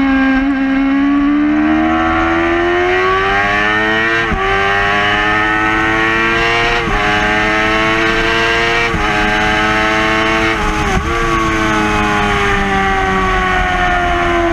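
2011 Yamaha R6's 600 cc inline-four engine at high revs on track, heard onboard with wind rush. The engine note climbs, dips briefly four times about two seconds apart as the rider shifts gear, then falls slowly near the end.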